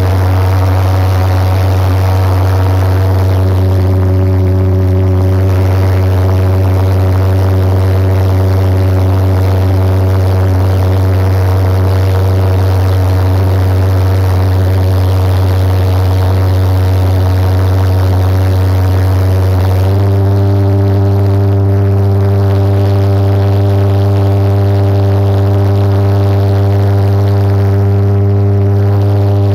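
Jet engine of a go-kart running at about half throttle: a loud, steady, low buzzing drone that grows fuller in tone about two-thirds of the way through.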